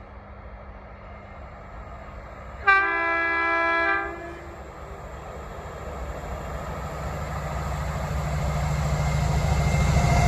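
Diesel freight locomotive sounding one short horn blast about two and a half seconds in, then its engine rumble growing steadily louder as the train approaches.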